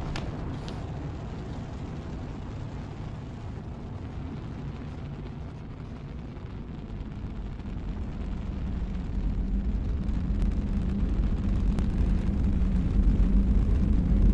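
Spaceship take-off sound effect: a low, noisy rumble that builds louder through the second half.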